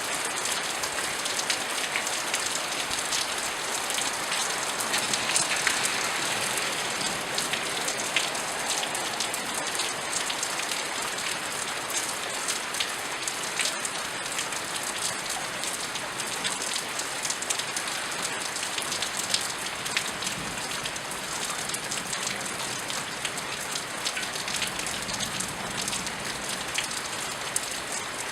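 Steady rain falling, a dense even hiss with many sharp ticks of individual drops striking close by, a little heavier about five seconds in.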